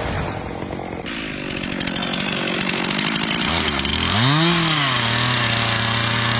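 Chainsaw cutting into wood with a noisy, rasping sound. About a second in, the sound changes. From about three and a half seconds a chainsaw engine note comes in, swings up and back down in pitch once, then holds a steady note.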